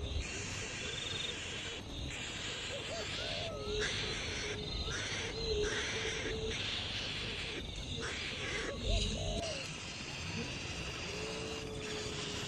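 A bird's low hooting call, repeated about four times, each a short looping note followed by a held note, over a steady hiss.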